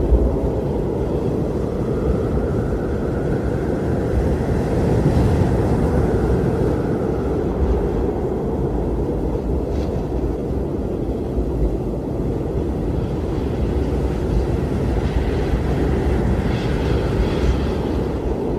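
Strong blizzard wind blowing steadily with a deep rumble, and a faint whistling tone that swells and fades in the gusts.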